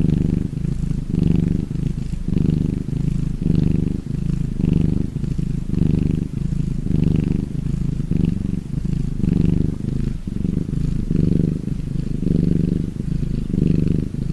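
Domestic cat purring loudly and steadily close to the microphone, in an even rhythm of a little over one purr cycle per second as it breathes in and out while resting.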